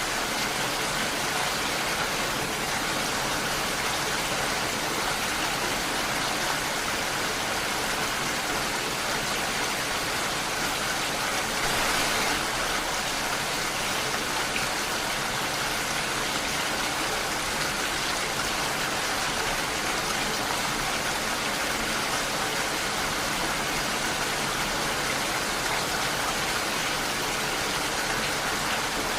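Heavy rain falling steadily, a dense even hiss of drops, swelling slightly about twelve seconds in.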